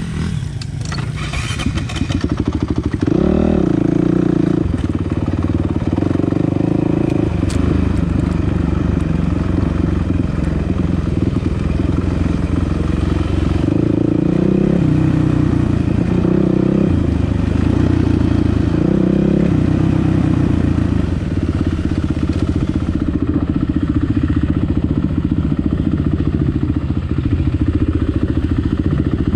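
Dirt bike engine running hard under way, its revs rising and falling every few seconds as the rider works the throttle.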